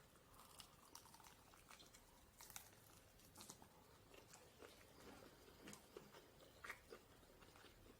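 Faint chewing of fried chicken close to the microphone, with small scattered clicks and crunches.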